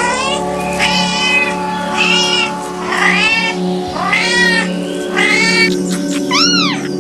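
A cat meowing repeatedly, about seven meows roughly a second apart, each rising then falling in pitch, over background music.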